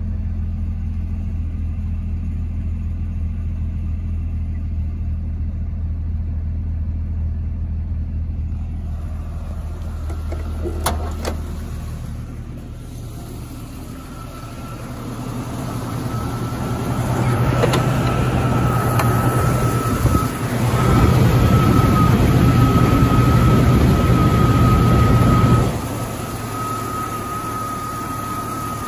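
1999 Jeep Cherokee XJ's 4.0-liter inline-six idling smoothly ("purrs"), heard first from inside the cab as a steady low hum, then louder and rougher from outside at the open engine bay. A steady high whine runs along with it through the second half.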